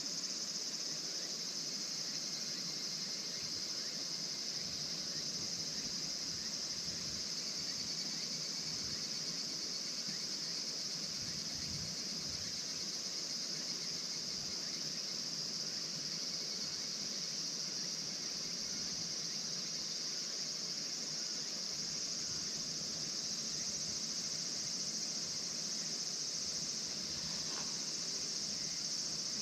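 A steady, high-pitched insect chorus, chirring continuously without a break.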